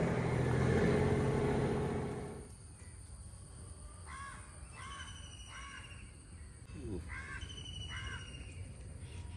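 A vehicle's engine noise dies away about two seconds in. Crows then caw about five times in short calls, with thin high chirps from other birds.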